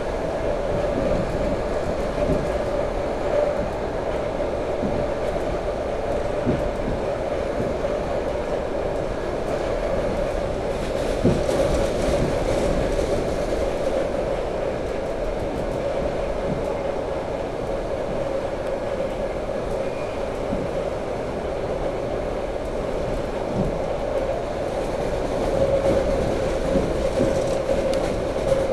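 Electric commuter train running at speed, heard from inside the carriage: a steady rumble of wheels on rail with a constant hum, broken by scattered light knocks.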